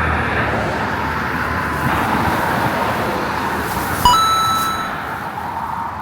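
Road traffic noise from a vehicle passing and fading away. About four seconds in there is a click followed by a short electronic beep.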